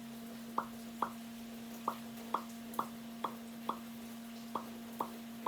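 Water dripping: about ten drops fall into water in irregular succession, each a short plop, over a steady low hum.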